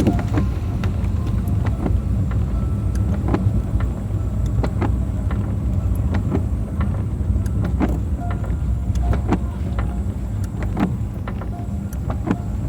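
Car driving, with a steady low road rumble and irregular sharp ticks and taps scattered through it.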